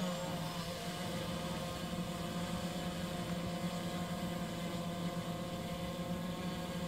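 Multirotor drone hovering: a steady hum of spinning propellers with several even tones that hold without change.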